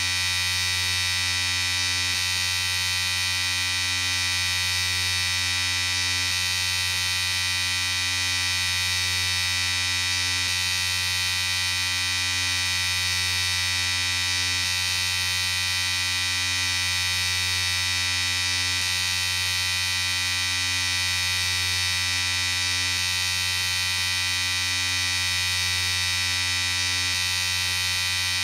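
Electric shaver running with a steady, unchanging buzz.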